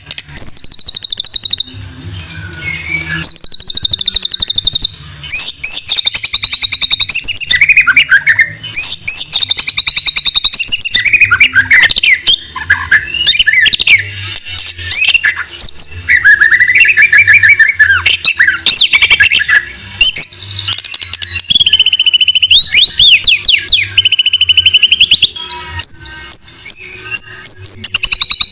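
White-rumped shama (murai batu) singing continuously: loud whistled phrases that glide up and down, run together with fast chattering and clicking notes.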